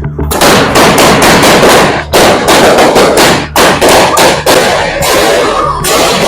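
A firework going off up close: a loud, fast string of sharp bangs and crackles, several a second, almost without a break.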